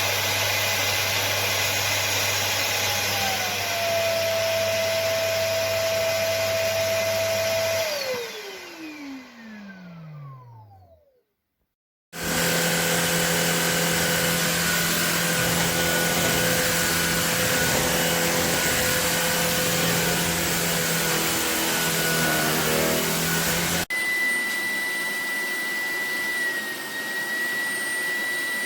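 Shark Detect Clean & Empty cordless vacuum cleaner running steadily, then switched off about eight seconds in, its motor winding down with a falling whine to silence. About a second later it starts again and runs steadily, with a sudden change of tone near the end.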